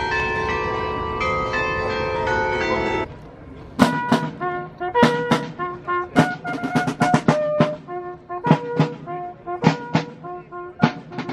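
Brass band with drums playing: a held chord for about three seconds, then, after a short pause, a run of short, detached notes punctuated by sharp drum strikes.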